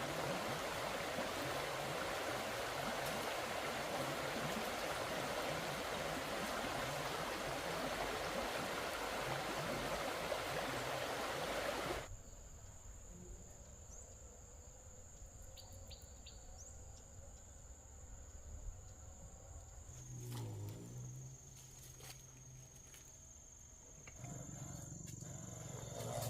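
Stream water rushing for about twelve seconds, then it cuts off suddenly to a quieter scene with a steady high insect drone and a few short bird chirps. Near the end a low hum sets in.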